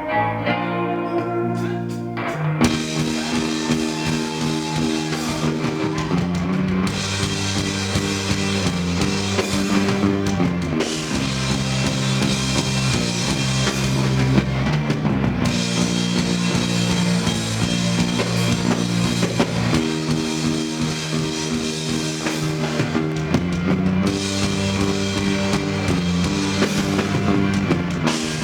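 A rock band playing an instrumental passage on drum kit and guitars, no vocals; the full band with drums comes in about two seconds in.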